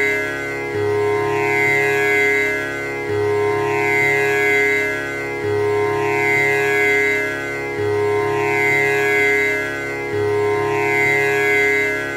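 Tanpura drone: its strings plucked in turn in a steady repeating cycle, restarting about every two and a half seconds. The tones ring into one another with the buzzing shimmer of the instrument's jawari bridge.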